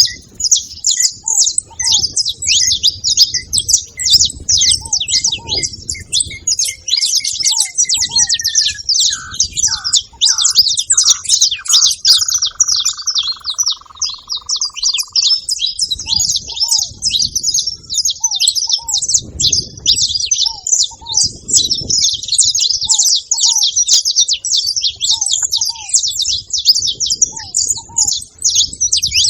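A flock of saffron finches chirping at a feeder, a dense, continuous chatter of many overlapping high calls.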